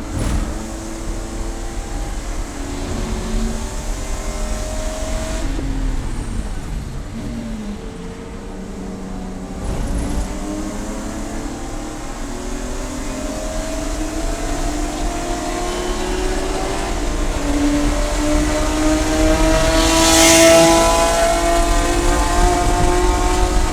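Race car engine running hard on track: the pitch drops for a few seconds as it slows, then climbs steadily under acceleration to a loud peak about twenty seconds in.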